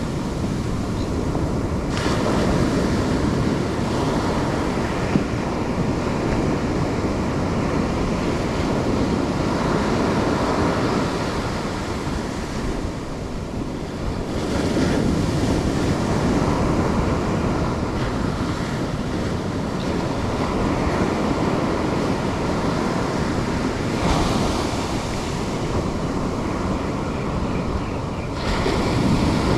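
Surf breaking and washing up the shore, swelling and easing every several seconds, with wind on the microphone.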